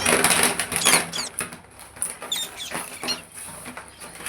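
A parrot giving several short, high squeaky chirps, with rustling and scratching in the first second.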